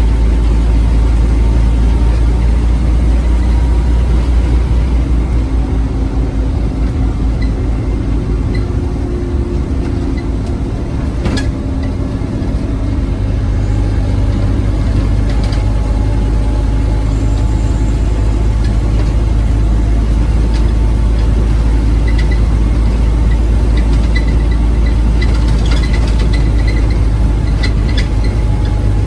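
Scania OmniCity bus's diesel engine running with a heavy low rumble, easing off briefly around ten seconds in and then building again. A sharp click comes about eleven seconds in, and light rattles near the end.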